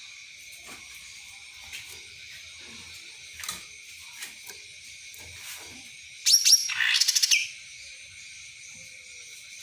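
A cucak ranting songbird gives one short loud burst of rapid, sharp repeated notes about six seconds in, over a steady high buzz of insects.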